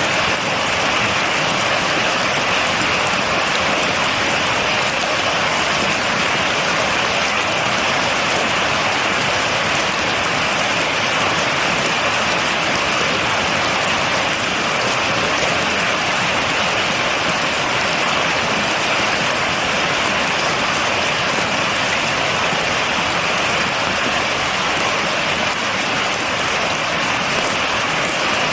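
Steady, dense rainfall without thunder: an even hiss of rain with fine patter of drops on a surface, unchanging throughout.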